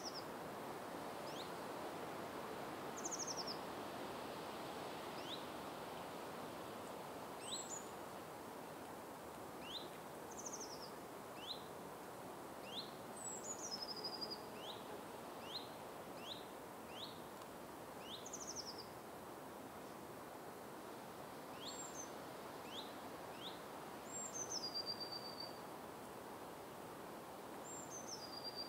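Birds calling over a faint, steady background hiss: short high chirps every second or two, and now and then a higher whistled note that steps down in pitch.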